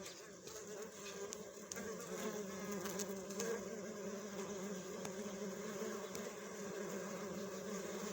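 Bee buzzing steadily, a low drone that wavers slightly in pitch.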